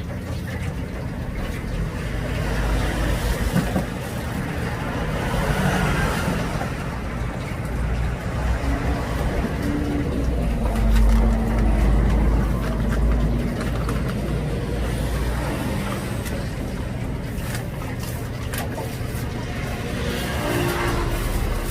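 Street traffic: a steady low rumble of vehicles that swells about halfway through as one passes close, over general street noise.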